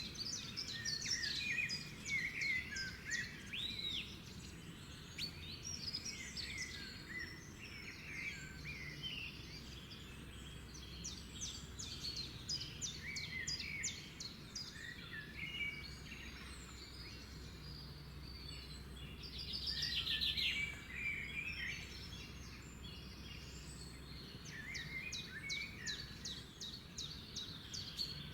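A chorus of several songbirds singing and chirping at once, with runs of rapid repeated notes and a louder trill about twenty seconds in, over a low steady background rumble.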